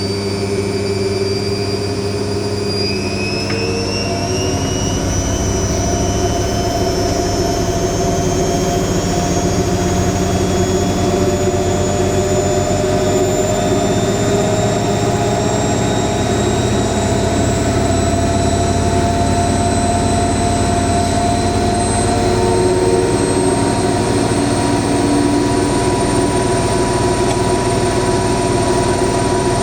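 AEG 7000 Series washing machine in its final spin: the drum and motor run at high speed with a steady rumble. The motor whine rises in pitch a few seconds in as the drum speeds up, then holds steady.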